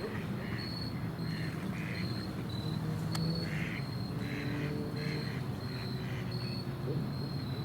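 Ducks quacking repeatedly in short, irregular calls, over a steady low hum and a regular high-pitched chirping. A single sharp click about three seconds in.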